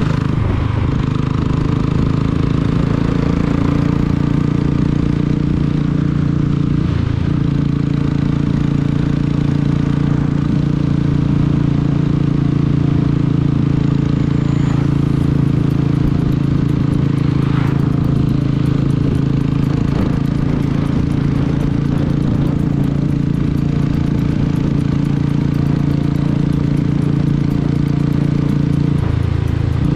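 Royal Enfield motorcycle engine running steadily at cruising speed, with wind and road noise over the microphone. Its note dips lower near the end.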